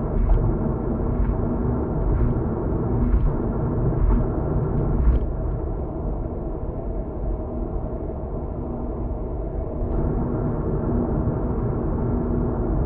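Steady low road and engine rumble heard inside a moving car, with a constant hum under it. Faint light knocks come about once a second during the first five seconds.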